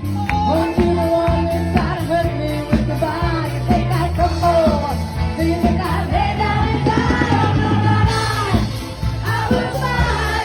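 Live band playing a rock song: sung vocal line over bass and a steady drum beat.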